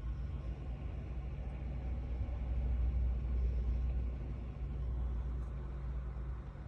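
A low rumble that swells and fades, loudest about three seconds in, over a steady low hum.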